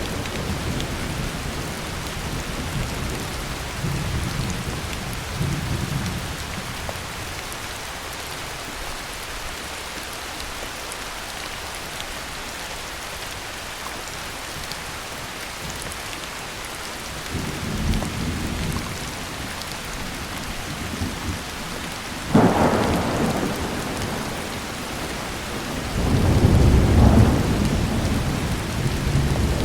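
Heavy rain falling steadily with thunder rolling through it: low rumbles come and go a few times, a sharper crack of thunder breaks about three-quarters of the way through, and the loudest, longest rumble comes near the end.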